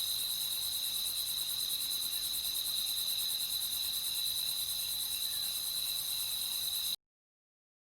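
Crickets chirring in a steady, high, fast-pulsing trill that cuts off suddenly near the end.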